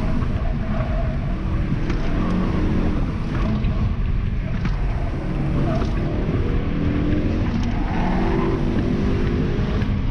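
Car engine under hard acceleration in an autocross run, heard from inside the cabin: the engine note climbs and falls several times as the driver accelerates, lifts and shifts.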